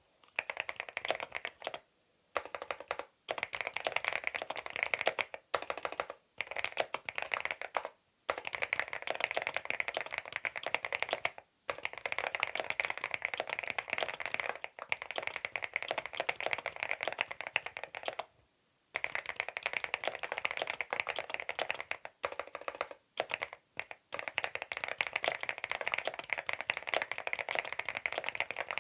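Fast typing on a CIDOO V87 aluminium-case mechanical keyboard with its stock linear switches: rapid runs of key clacks with brief pauses between them.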